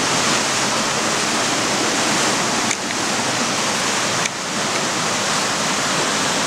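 Floodwater rushing past, a loud, steady wash of noise.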